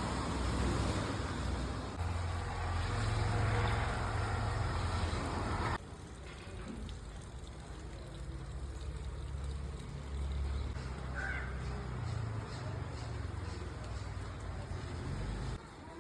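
Rain falling outdoors, a steady wash of noise, with wind buffeting the microphone as a low rumble. The sound drops sharply about six seconds in and again near the end.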